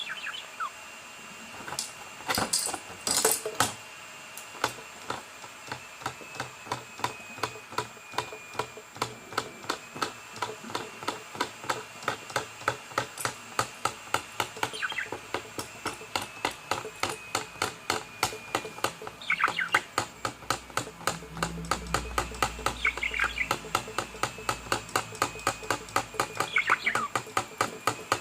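A fast, even ticking of sharp clicks, about four a second, with a few short downward-sliding bird chirps over it and a faint steady high whistle.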